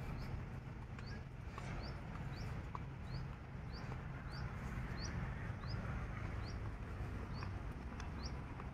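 A bird repeating a short rising chirp, about three every two seconds, over a low steady rumble.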